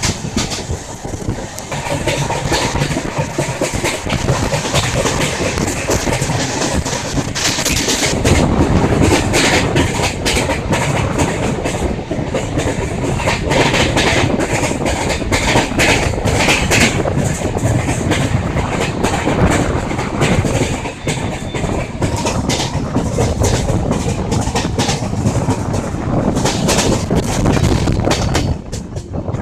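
Indian Railways passenger train running, heard from onboard: steady wheel and track noise with a dense clatter of wheels over the rails.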